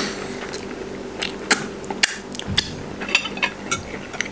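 Close-miked chewing of bony fried chicken: irregular sharp crunches and clicks as bone and cartilage break between the teeth. A faint steady hum runs underneath, and near the end a fork scrapes the plate.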